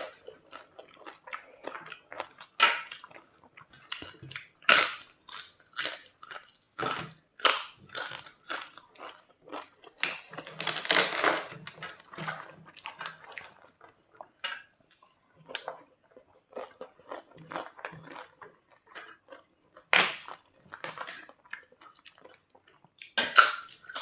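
Chewing and crunching of crisp papad: a string of short, sharp crackles, with a longer crackling stretch about halfway through.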